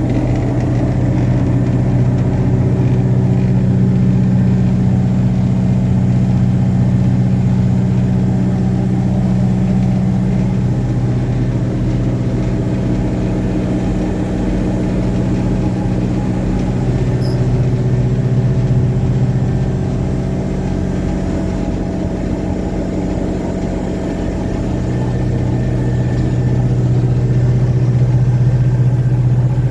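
Revathi C650D drill rig running steadily, a loud, deep machine hum whose pitch shifts a little now and then.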